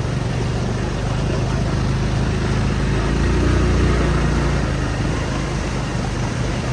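A motor vehicle engine running steadily at a low pitch, getting louder about three seconds in and then easing off again.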